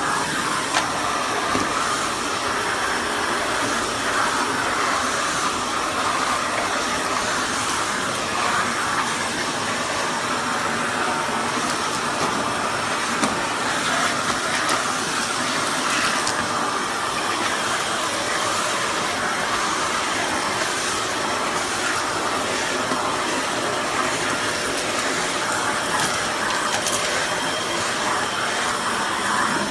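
Kärcher WD 6 wet-and-dry vacuum cleaner running steadily, a constant rushing drone of motor and airflow with a few faint ticks.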